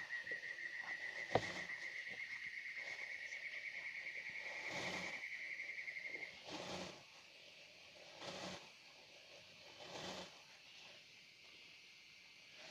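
A steady, high insect trill, slowly rising in pitch, cuts off about six seconds in. A sharp click comes just over a second in, and short noisy calls repeat about every second and a half to two seconds.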